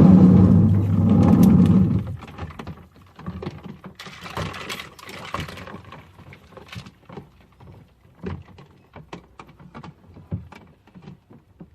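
Washing machine running with a steady motor hum for about two seconds, then stopping. Scattered light clicks and knocks follow, from plastic toy tools shifting in the drum.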